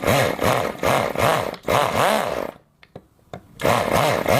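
Miniature rotary engine firing unevenly, its pitch surging up and down about twice a second as it struggles to keep running. It cuts out about halfway through and catches again about a second later.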